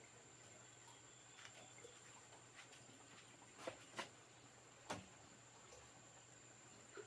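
Faint ambience with a steady high-pitched insect drone, broken by a few short sharp knocks in the middle, the loudest about five seconds in.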